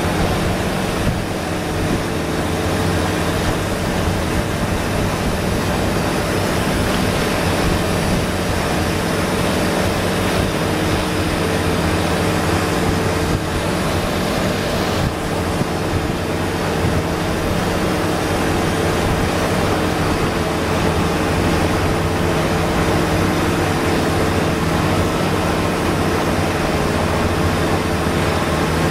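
Long-tail boat's engine running steadily while the boat is under way, a constant low drone with several steady tones, over a steady rushing hiss.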